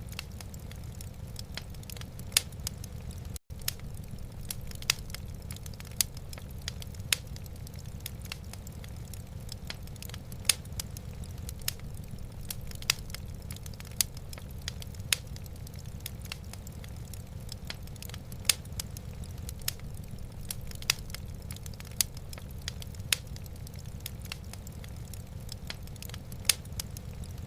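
Wood fire burning in a fireplace: irregular sharp crackles and pops over a steady low rumble, with a momentary cut-out about three and a half seconds in.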